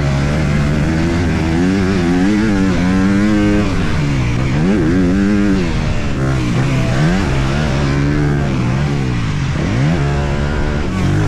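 Honda CRF250R single-cylinder four-stroke motocross engine being ridden hard, its pitch rising and falling several times as the throttle is opened and closed, heard close up from the rider's helmet.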